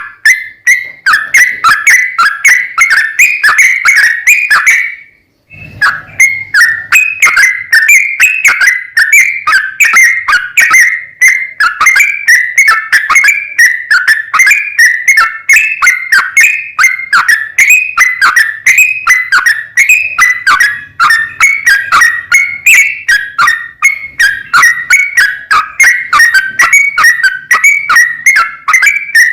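Yellow-vented bulbul song: short whistled notes repeated several times a second in a long unbroken run, the continuous 'ropel' style of song, with one brief gap about five seconds in.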